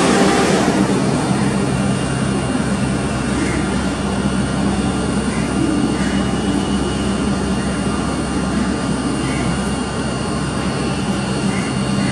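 Electric train running close by: a steady, loud mechanical drone with a low hum and several held whining tones, easing slightly over the seconds.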